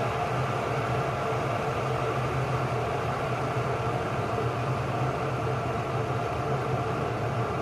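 Ikich CP188A electric kettle, borosilicate glass with a stainless steel base, heating a small amount of water toward the boil: a steady noise with a low hum underneath.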